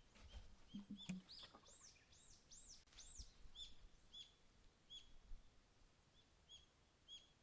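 Faint birdsong: a quick run of five or so arching whistled notes from about a second and a half to three and a half seconds in, with short high chirps repeated throughout.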